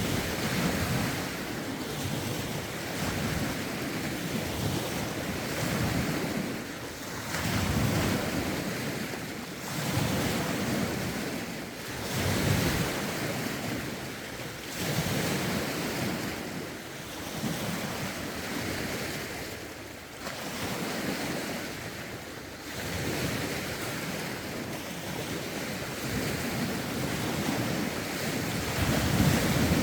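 Lake waves washing onto the shore in a steady rhythm of surges about every two seconds, with rough wind buffeting the microphone.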